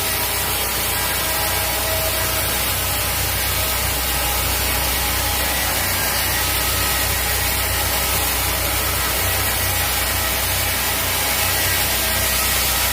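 Sawmill saw running steadily through a teak log, a constant low hum under an even hiss.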